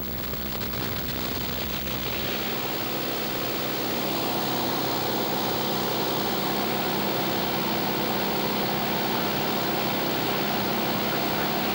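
Cessna's engine and propeller running steadily, growing louder a few seconds in and then holding.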